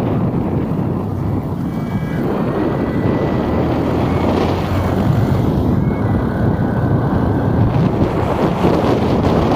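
Loud, steady rumble of city street ambience: road traffic mixed with wind buffeting the microphone. Faint thin high tones come in briefly twice.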